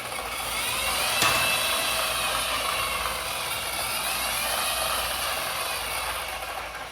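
A small electric motor whining steadily, its pitch slowly rising and falling, with one sharp click about a second in.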